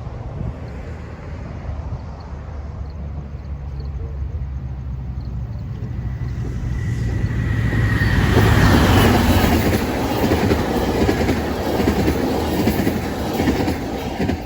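Passenger train approaching and passing close by: a steady low diesel locomotive hum grows louder, then from about eight seconds in a broad rush of wheels on rail takes over and begins to fade near the end.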